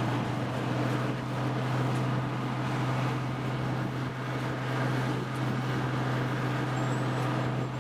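Heavy machine's engine running steadily: an unchanging low drone under a broad noisy hiss.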